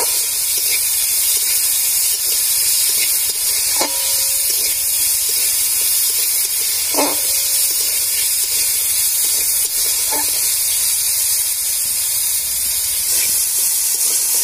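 Diced potatoes frying in mustard oil in a large aluminium wok with a steady sizzling hiss, while a metal spatula stirs them and clinks against the pan four times, each a short ringing knock about three seconds apart.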